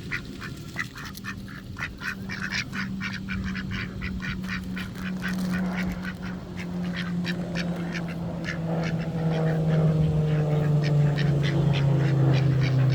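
A flock of ducks quacking rapidly and continuously, crowding in to be fed. Under the quacking runs a low steady hum that slowly drops in pitch and grows louder in the second half.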